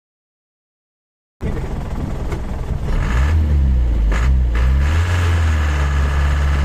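About a second and a half of dead silence, then an Isuzu Elf truck's engine running under load, its pitch shifting up and down as it pulls before settling to a steady drone.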